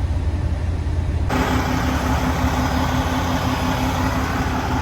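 Semi truck's diesel engine idling with a steady low rumble. About a second in, a loud steady hiss with a humming tone starts abruptly and joins it.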